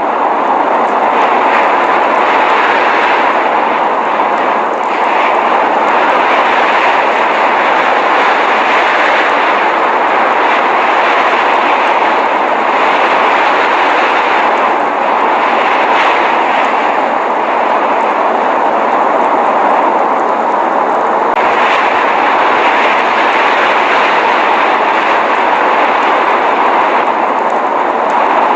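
Steady rushing noise of blizzard wind, an even, unbroken hiss with no distinct events.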